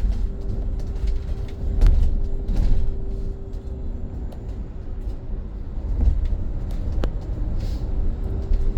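Inside a BYD BD11 electric double-decker bus in motion: a steady low road rumble with a steady hum over it, and a few sharp rattles or knocks from the bodywork.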